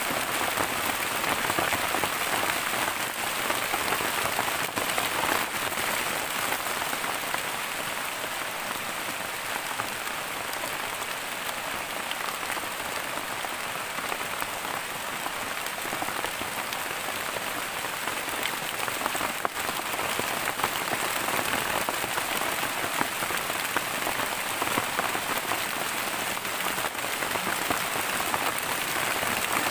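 Heavy rain falling steadily on the palm-leaf thatch overhead and the surrounding forest, a dense even hiss of countless drops.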